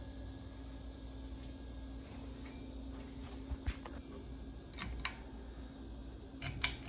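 Ceiling fan motor humming steadily on its low setting without keeping the blades turning, a sign of a bad motor. A few sharp clicks in the second half.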